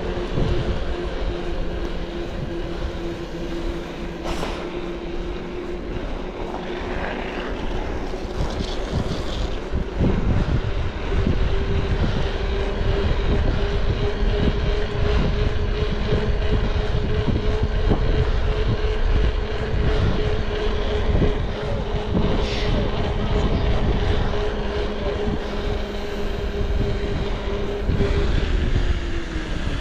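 A vehicle engine running steadily under a rumbling low noise. Its drone rises slightly about a third of the way in, holds, then drops away near the end.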